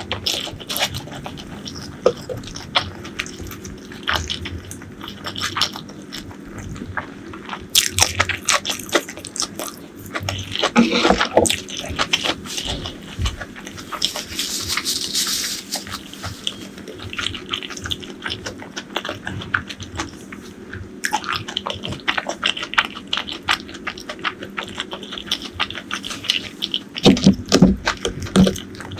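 Close-miked eating: chewing and crunching with many small wet mouth clicks, in louder flurries about eight to twelve seconds in and again near the end.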